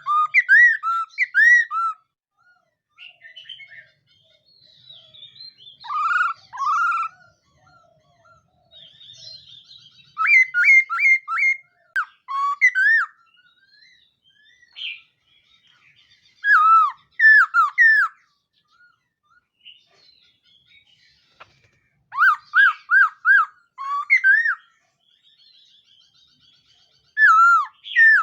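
Laughingthrush (khướu mun) singing loud whistled phrases of quickly repeated, sliding notes, with pauses of a second or several between phrases.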